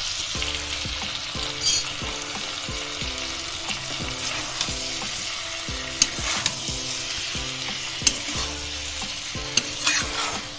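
Cauliflower, potato, carrot and peas in masala sizzling in a metal kadai while a spatula stirs and scrapes them, being fried down (kosha) on medium flame. The spatula knocks sharply against the pan a couple of times, about six and eight seconds in.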